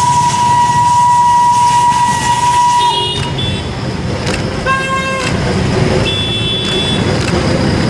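Steam locomotive whistle blowing one long steady note for about three seconds, followed by three short toots, over the rumble of a running train.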